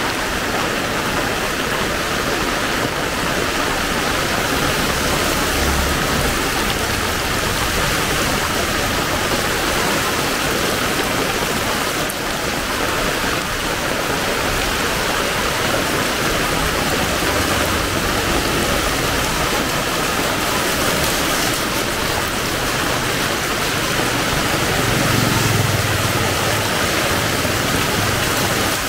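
Heavy rain pouring down steadily, a dense even hiss, with a brief low rumble near the end.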